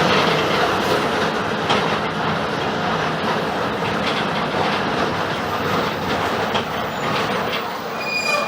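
Mercedes-Benz OF-1721 BlueTec 5 city bus under way, heard from inside: a steady din of diesel engine and road noise with scattered rattles and clicks from the body. Near the end comes a brief high-pitched squeal.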